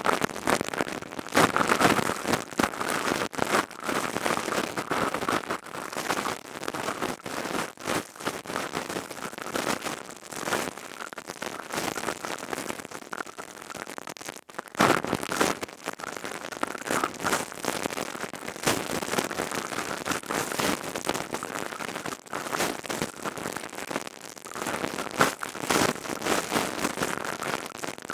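ASMR crystal tube handled close to the microphone, giving a dense crackling patter of many small clicks. It starts suddenly out of silence.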